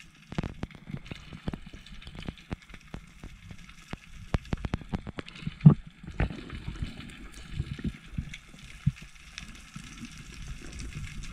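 Water sloshing and gurgling with many irregular clicks and knocks, one sharper knock a little past halfway, as picked up by a diving camera during a spearfishing dive.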